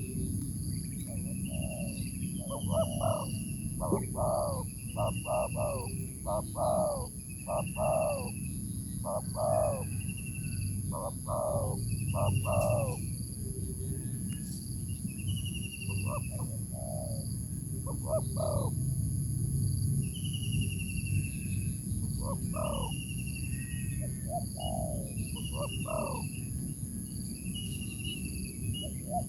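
Birds calling back and forth, a decoy and a wild bird answering it, with repeated short harsh calls in clusters of two or three and a higher falling note about every second and a half. The calls are busiest in the first half. Steady insect buzzing continues underneath.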